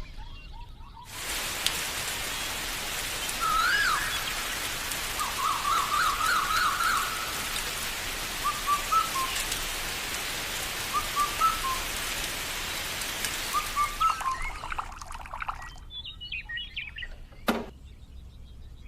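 Small birds chirping in short repeated calls over a steady hiss that starts abruptly about a second in and fades out near the end, followed by a single sharp click.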